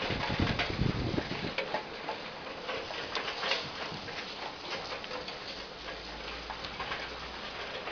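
Heavy rain hissing steadily, with many irregular drips and ticks of water falling and leaking into the house. A low rumble runs under it for about the first second and a half.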